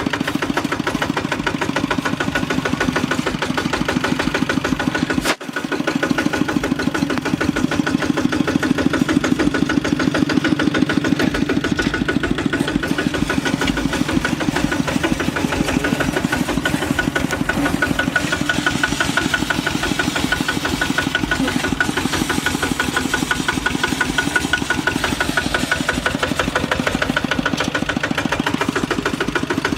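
Kubota RT walking tractor's single-cylinder diesel engine running steadily with a rapid, even chug. There is a sharp click and a momentary drop about five seconds in.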